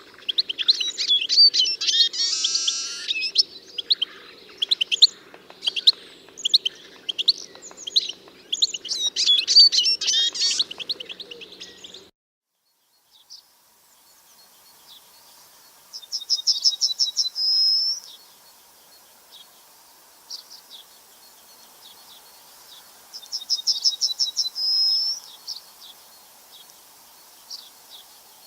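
Songbirds chirping busily together; after a cut about 12 s in, a single bird repeats a short song, a fast trill ending in a higher whistled note, about every seven seconds.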